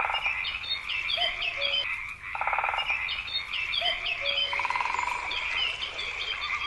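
Frogs croaking in a chorus: short pulsed croaks come about every two and a half seconds over a steady high trill, with many quick high chirps repeating throughout.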